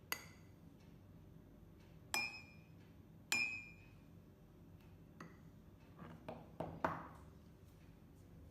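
A spoon clinking against a coffee mug while thick whipped coffee cream is spooned in. Two sharper clinks, about two and three seconds in, ring on briefly, and a few softer taps follow.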